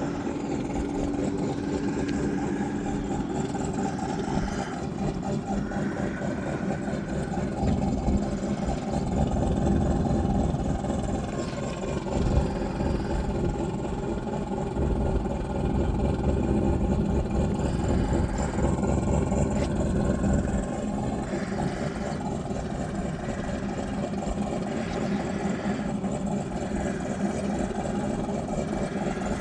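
Race car engines idling and running at low revs, a steady rumble that swells a little now and then.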